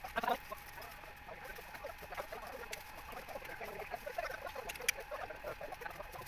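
Many short animal calls overlapping in a steady chatter.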